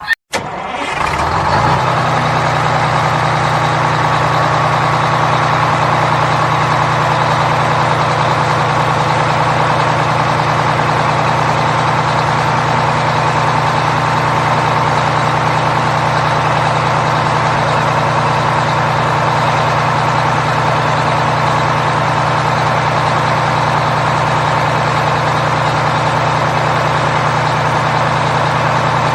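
A heavy engine starts up and settles into a steady, unchanging idle, plausibly a tractor engine.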